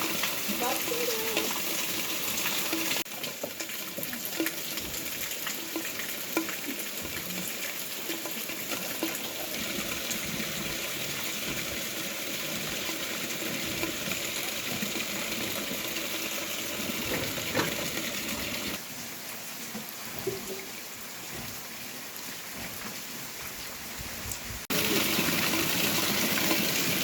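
Heavy rain falling: a steady, even hiss, with a few faint drip-like ticks, whose level drops and rises abruptly a few times.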